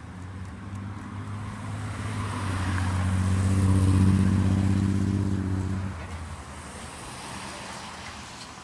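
A motor engine passing by, growing louder to a peak about four seconds in, then dropping away sharply about six seconds in.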